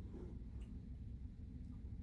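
Faint click of a plastic spoon against the cup about half a second in, over a low steady hum.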